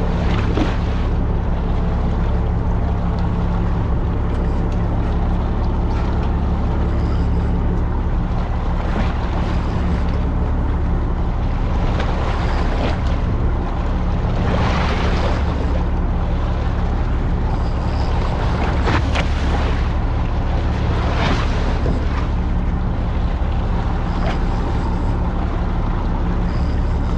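A fishing boat's engine running steadily with a constant low hum. Water washes against the hull, swelling in louder surges several times.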